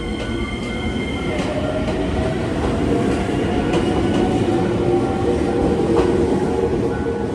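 Nankai Koya Line electric train running on the rails: a loud rumble with rail clicks, a whine that slowly rises in pitch and a few higher squealing tones, growing louder over the first few seconds.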